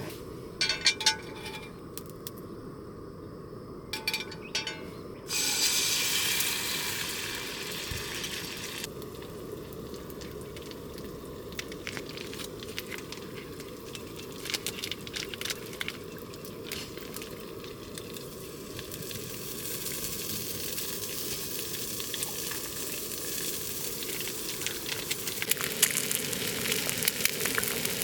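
A few light clinks of utensils, then about five seconds in food hits a hot pan and sizzles steadily, with fine crackles of frying.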